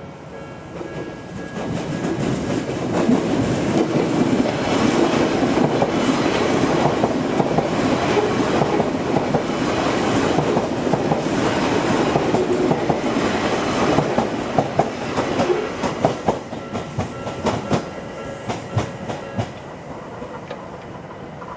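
Odakyu Line electric train passing at speed. A rumble of wheels on rail builds over the first couple of seconds and runs steadily for about thirteen seconds. The wheels then clack over rail joints in a quick run of sharp clicks that fades as the last cars go by.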